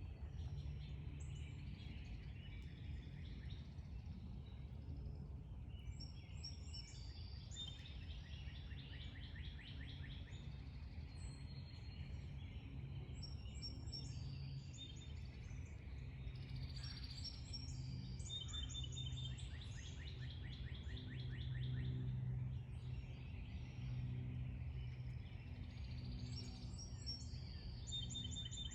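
Several backyard songbirds chirping and trilling, with repeated quick calls and rapid trills, over a steady low background hum.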